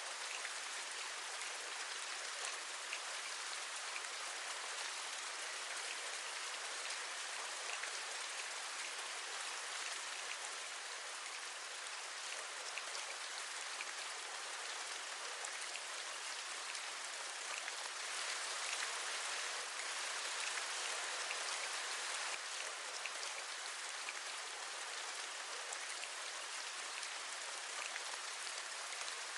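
Steady rain falling, a continuous hiss with scattered individual drop taps, swelling a little about two-thirds of the way through.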